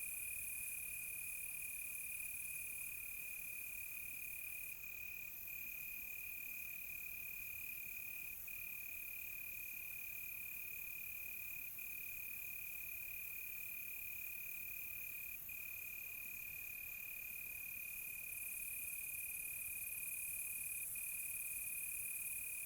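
Crickets chirping in a steady, unbroken chorus at one high pitch, over a fainter, higher insect hiss that grows louder and softer in steps.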